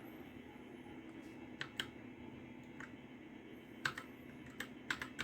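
Keys clicking on a Royal Kludge RK60 mechanical keyboard: two presses about a second and a half in, then a quick run of about five near the end, as its backlight effects are cycled with key combinations.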